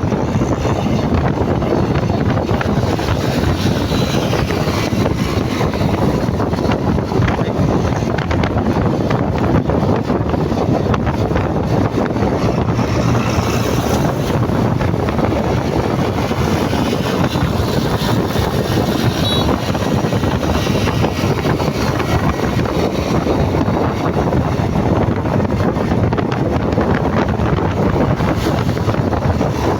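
Wind buffeting the microphone on a moving motorcycle, a steady rushing noise over the engine and road noise of the ride.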